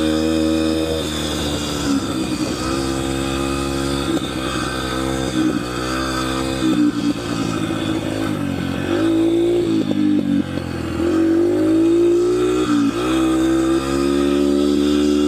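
Yamaha TT-R125 dirt bike's small single-cylinder four-stroke engine running in first and second gear, its pitch climbing and dropping several times as the throttle is opened and eased off, with short dips between climbs.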